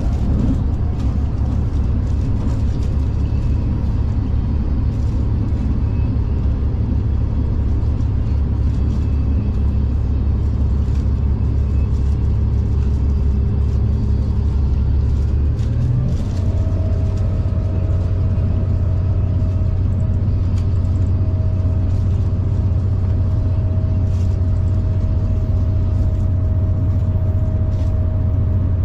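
Diesel passenger train running with a steady low rumble. About halfway through, the engine note shifts upward and a steady whine sets in and holds.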